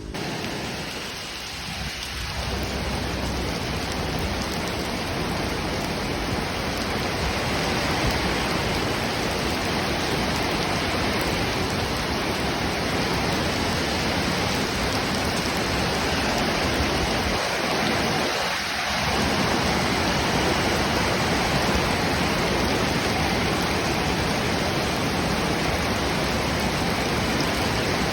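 Strong storm wind with rain: a steady, dense rushing noise with no tone in it, easing for a moment about two seconds in and again a little past the middle.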